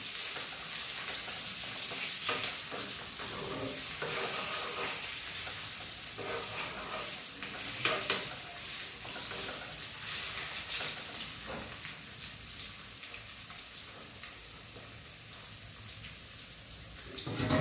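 Niuro (fiddlehead fern) frying and sizzling in a pan while being stirred, with occasional scrapes and knocks of the spoon against the pan. The sizzle eases slightly in the second half.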